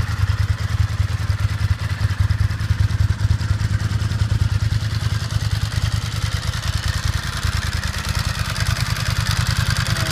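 2002 Ducati ST4S's 996 cc L-twin engine idling steadily with a rapid, even beat, warming up after a cold start.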